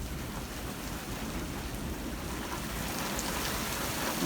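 Heavy rain pouring steadily, with a low thunder rumble underneath.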